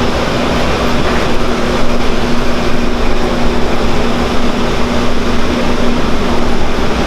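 Steady drone of airliner cabin noise, with a constant low hum that fades out near the end.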